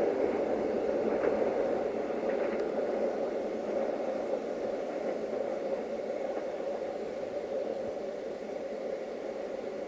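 A loco-hauled passenger train running away: the steady hum of its GM diesel locomotive and the rumble of the coaches on the rails, slowly fading, with a few faint clicks in the first few seconds.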